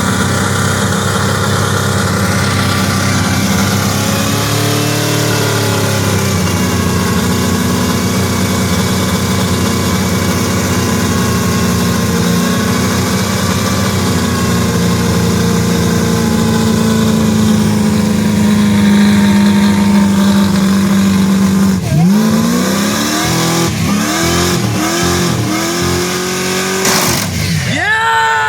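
Truck engine held at high, steady revs for a long stretch, as in a burnout or skid. From about two-thirds of the way in it is revved in a run of quick blips, each rising and falling, and it ends with one big rev that falls away.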